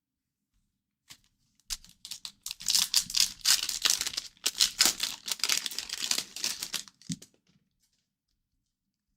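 A trading card pack's foil wrapper being torn open and crinkled: a few crackles, then several seconds of dense crackling and rustling. It ends with a soft knock.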